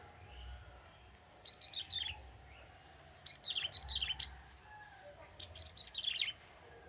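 Young male ciblek tebu prinia singing: three quick phrases of high, rapid, downward-sweeping chirps, about a second and a half apart.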